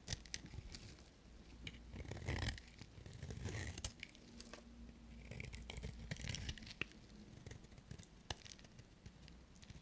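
Dry bar soap being cut with a knife: irregular crunching, scraping strokes with small sharp cracks as pieces break off.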